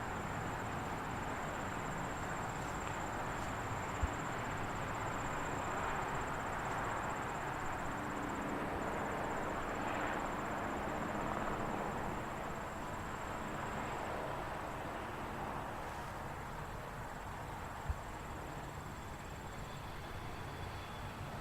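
Airfield ambience: a steady, distant jet-engine rush that swells a little midway and eases toward the end, under a steady high-pitched whine, with two faint clicks.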